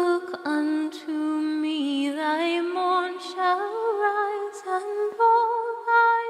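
Solo unaccompanied voice singing a slow hymn, holding long notes with vibrato. The melody steps up to higher held notes in the second half.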